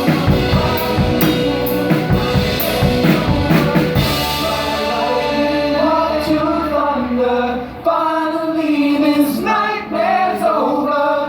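Band music with a drum kit, bass and singing. The drums drop out about four seconds in, leaving held sung notes over chords, and the low bass stops near the end.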